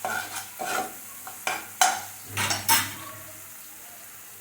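Spoon stirring and scraping a sauce in a pan in repeated quick strokes, with two louder scrapes about halfway through, then easing off to a faint steady noise.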